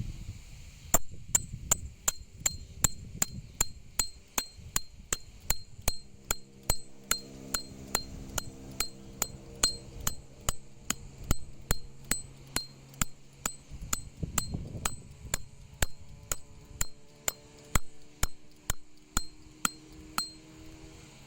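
A hammer striking a steel tent peg in a steady rhythm, about two and a half metallic blows a second with a bright ring, starting about a second in and stopping just before the end.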